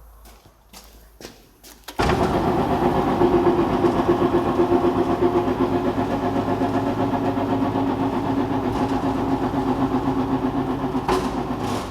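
A motor starts abruptly about two seconds in and runs loud and steady with an even hum for about ten seconds before stopping, after a few faint clicks.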